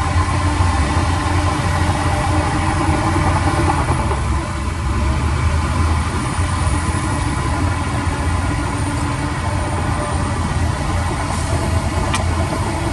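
Heavy construction machine's diesel engine running steadily with a deep low rumble. There is a single sharp click about twelve seconds in.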